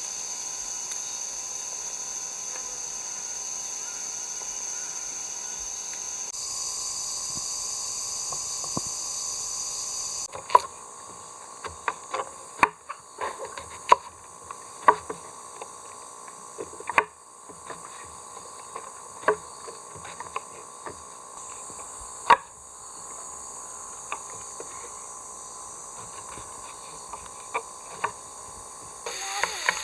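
A steady high insect chorus for about the first ten seconds, then a series of irregular sharp knocks and clicks, a couple of seconds apart or closer, for the rest of the stretch.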